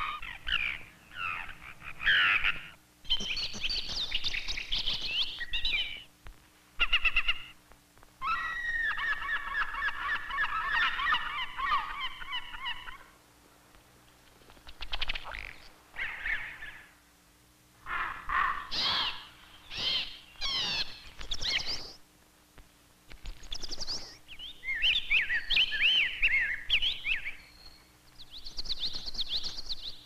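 A series of different wild birds singing and calling, one short recording after another: chirps, whistled phrases and rapid trills, with brief quiet gaps between them and a faint steady hum underneath.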